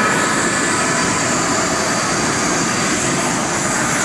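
Steady, loud rushing noise of workshop machinery, even and unbroken, with no separate knocks or strikes.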